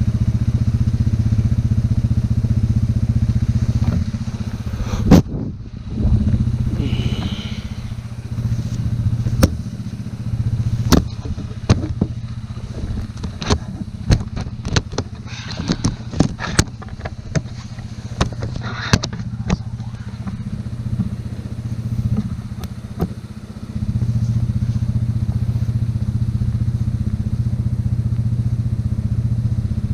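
ATV engine running under load while plowing snow. It is louder for the first few seconds and again over the last six. In between, the engine drops lower and a string of sharp clanks and knocks breaks in.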